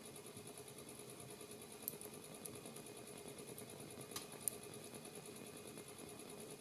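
Wood fire burning in a fireplace: a faint, steady flutter of flames with a few sharp crackles and pops of burning wood, the loudest about four and a half seconds in.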